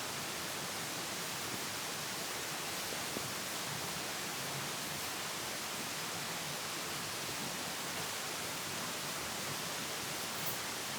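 A steady, even hiss with a few faint clicks scattered through it.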